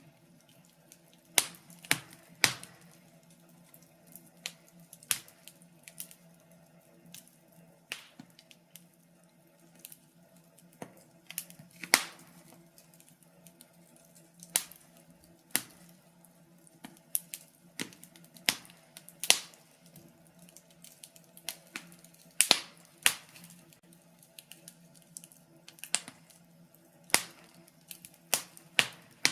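Fire crackling: sharp, irregular pops and snaps, now single and now in quick clusters of two or three, over a faint steady hum.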